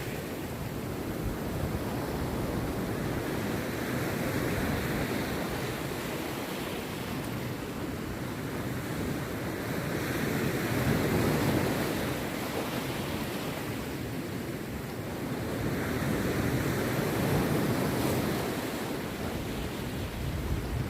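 Rough sea surf breaking on a beach: a continuous rush of water that swells and ebbs as waves come in, louder at roughly six-second intervals.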